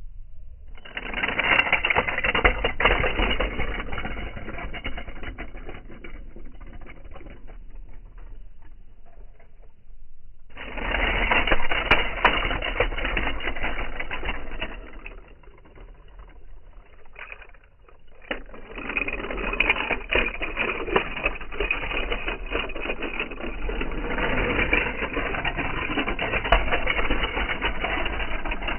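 Small 1:64 diecast toy cars rattling along and knocking together: a dense, fast clatter of many small hard clicks in three long stretches, with a short lull between the first and second and a shorter one just after 18 seconds in.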